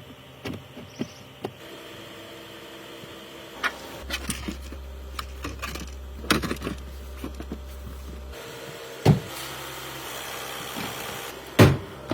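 Light clicks and knocks of parts being handled in a car's engine bay, with a steady low hum for about four seconds in the middle and two louder thumps in the last few seconds.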